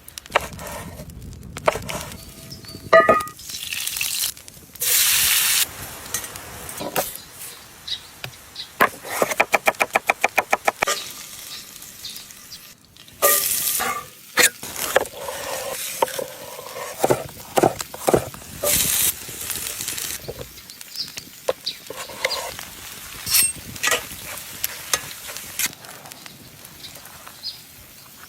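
Food preparation and cooking sounds: sizzling and frying, stirring, and utensils knocking and clattering. About ten seconds in comes a quick, even run of a dozen or so taps.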